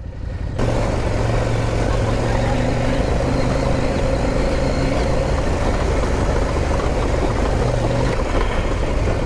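Motorcycle engine running at a steady, unchanging pace over a constant rushing noise, coming in louder about half a second in.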